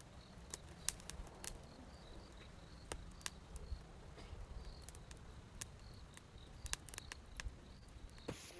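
Wood campfire crackling with irregular sharp pops, with faint repeated chirps of insects such as crickets behind it.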